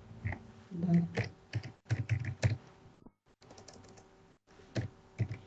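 Computer keyboard typing: irregular runs of key clicks, heard through a participant's open microphone on a video call. The audio drops out briefly in the middle.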